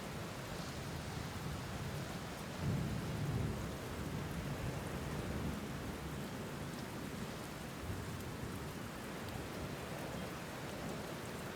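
Steady rain falling, with low rolls of thunder; the loudest rumble swells about two and a half seconds in and fades over a second or so.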